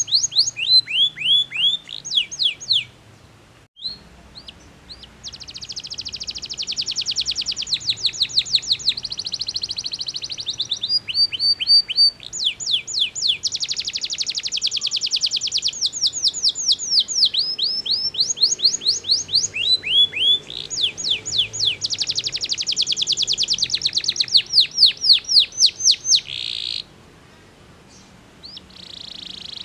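Domestic canary singing a long song. Phrases of repeated down-sweeping notes alternate with fast, rattling trills. The song pauses briefly a few seconds in and again near the end.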